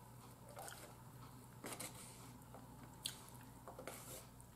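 A person chewing soft food with the mouth closed: faint wet mouth sounds and a few soft clicks, spaced out over the few seconds.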